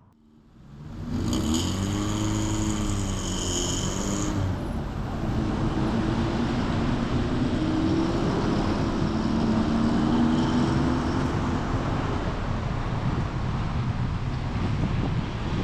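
Road noise while driving: a steady rush of tyres and wind with a vehicle engine's hum. After a brief dip to near silence at the start, an engine's pitch rises and falls between about one and four seconds in, then settles into a steadier hum.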